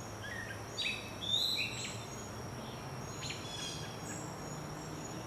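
Woodland songbirds chirping and whistling, a cluster of short high calls in the first two seconds and a few more just after three seconds, over a steady thin high-pitched tone and a faint low hum.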